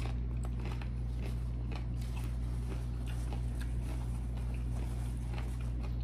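Close-up chewing of a mouthful of shrimp ceviche tostada with the mouth closed: soft, scattered mouth clicks over a steady low hum.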